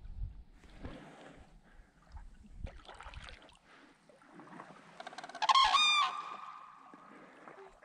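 A large bird flying overhead gives one loud, clear call a little past the middle, a pitched note with many overtones that trails off over about a second.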